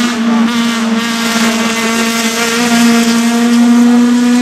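Race car engine held at high revs with a steady, high pitch that edges up slightly near the end.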